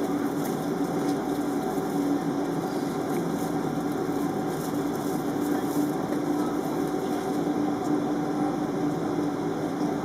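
Steady airliner cabin noise on the ground before take-off: the even hum of the jet engines and cabin ventilation, with a constant low drone.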